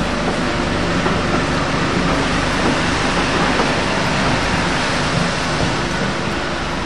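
Steam-hauled passenger train, 60163 Tornado's train, heard from on board one of its coaches: a steady rumble and rush of the carriages running on the rails.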